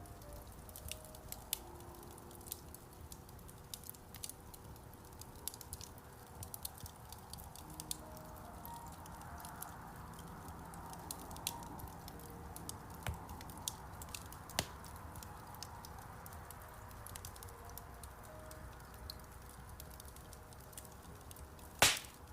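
Wood fire crackling in a fireplace, with scattered small pops and one loud pop near the end, under soft, slow piano music.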